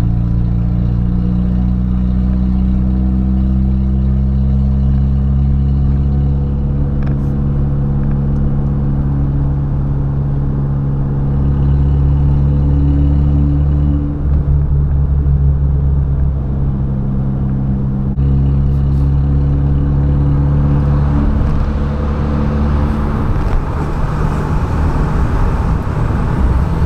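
Car engine and exhaust running at low, fairly steady revs while driving, the drone shifting slightly in pitch now and then. Near the end a broader rushing noise builds up under it.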